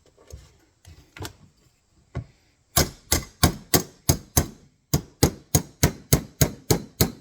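A few light taps, then from about three seconds in a quick, even run of hammer blows on steel, about four a second with a short break, banging the jaw of an MB-550 foothold trap up out of its groove to get it off the frame.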